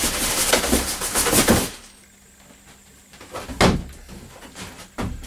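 Large cardboard box being opened: cardboard rubbing and scraping for under two seconds, then a quiet stretch broken by two sharp knocks.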